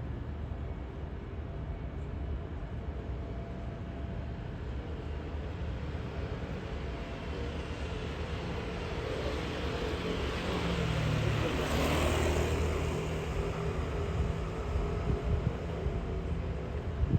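Steady city traffic noise, with one vehicle passing close by: its engine and tyre noise swell to their loudest about twelve seconds in, then fade.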